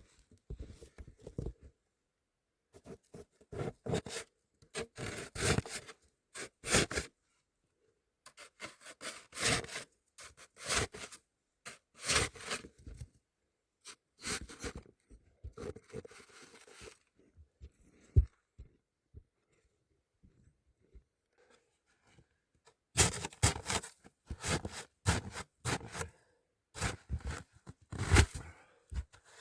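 Hand tool cutting and scraping into hard, icy snow in repeated short strokes, in several runs with a lull in the middle.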